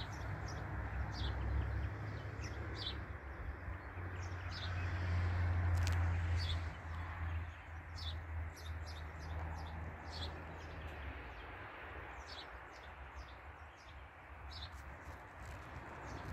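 Small birds chirping, many short high calls scattered throughout, over a low rumble that is loudest about five seconds in and fades away after about eleven seconds.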